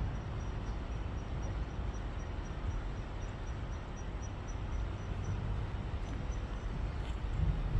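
Outdoor background noise: a steady low rumble under an even hiss, with a faint high chirp repeating about four times a second that stops near the end.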